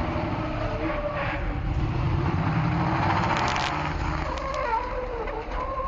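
Second-generation Chevrolet Camaro's engine running loudly as the car pulls away and drives past.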